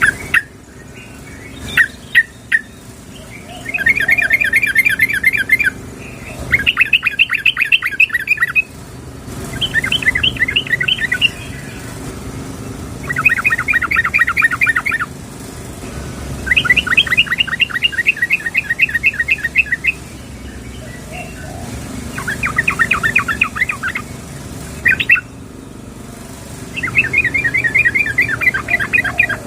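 Yellow-vented bulbul (trucukan) calling: bursts of rapid chattering notes, each lasting about two seconds, repeated after short pauses, with a few single short calls in between. It is the female's call to a male.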